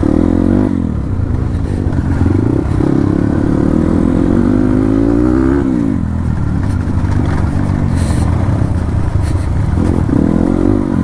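Dirt bike engine running while riding, its pitch climbing as the throttle opens and dropping away about six seconds in, then climbing again near the end.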